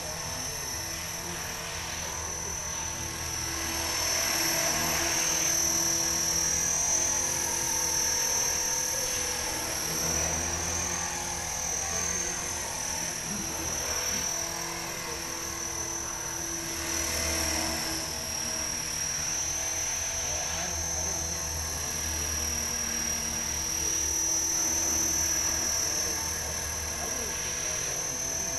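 Small electric RC helicopter in flight: a steady high-pitched motor whine that wavers slightly in pitch, over a low rotor drone that swells and fades as the pilot works the controls.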